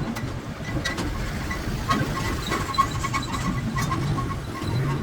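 Steady mechanical hum or engine-like running noise with a faint pulsing tone and scattered light clicks.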